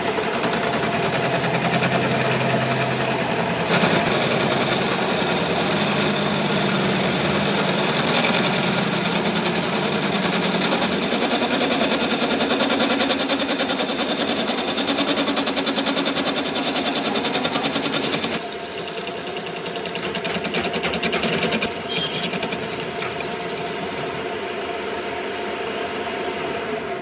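A workshop machine running steadily with a fast, fine rattle. A harsher, brighter layer of noise joins about four seconds in and cuts off suddenly past the middle, leaving the machine running more quietly.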